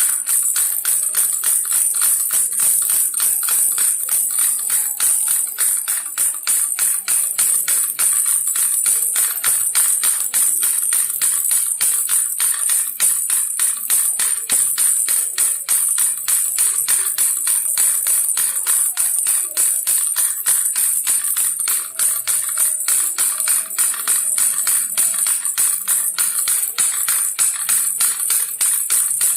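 Baby rattle shaken steadily and fast, a continuous high-pitched rattling.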